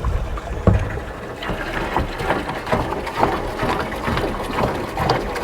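Water from a garden hose splashing and sloshing inside a plastic chemical jug as it is rinsed out, a fast irregular patter of splashes.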